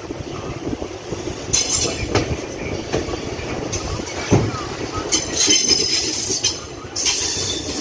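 Passenger train coaches rolling slowly, with bursts of high squealing from wheels and brakes about one and a half, five and seven seconds in.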